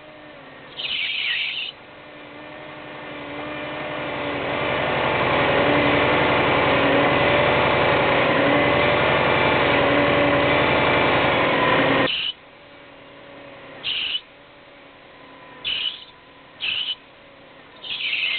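Car power steering pump making an abnormal noise: short high squeals a few times, and a louder whining noise that builds over several seconds, holds, then cuts off suddenly about twelve seconds in. The owner traces the noise to the power steering pump.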